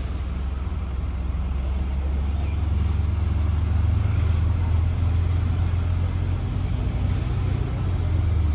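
Steady low rumble and road noise of a motor vehicle driving.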